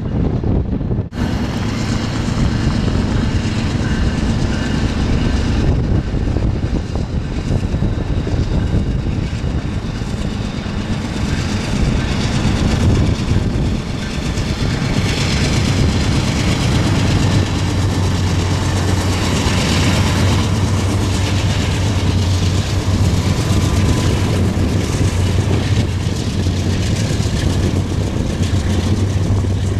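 A train passing close by: a continuous loud rumble of rolling railcars with the steady low hum of locomotive engines underneath. There is a short break about a second in.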